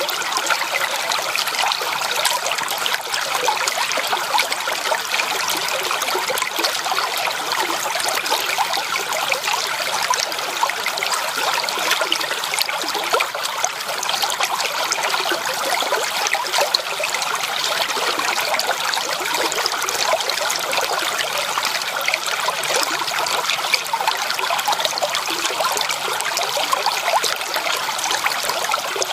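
Running stream water, a steady trickling and babbling with many small splashes and no deep rumble.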